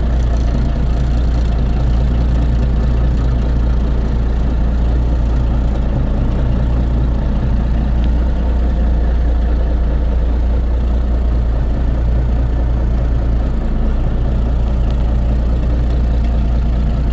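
1952 Peterbilt cabover truck's engine running steadily at an even speed, a loud, unchanging low rumble.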